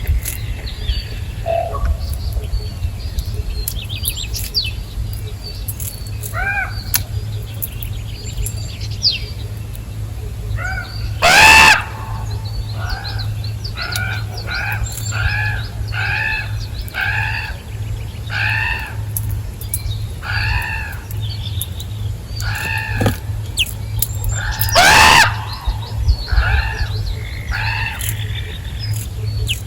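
Birds calling: a run of short, arched, harsh calls repeated about twice a second, with two much louder calls, one before the run and one near the end, and a few small high chirps early on. A steady low hum lies under them.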